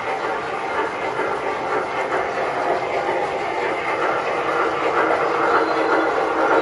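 O-gauge MTH Premier model steam locomotives running around the layout: a steady rolling, clacking noise of wheels on the track rails, getting a little louder toward the end.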